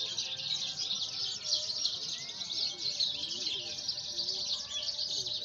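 Javan bush lark (branjangan) singing a fast, unbroken stream of high chirps and trills.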